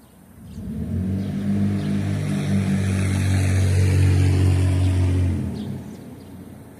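A motor vehicle driving past, its engine hum and road noise swelling about half a second in, holding loud, then fading away near the end.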